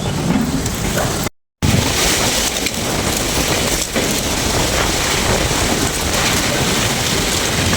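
Strong storm wind blowing: a loud, steady rush of noise, broken by a brief silence about a second and a half in.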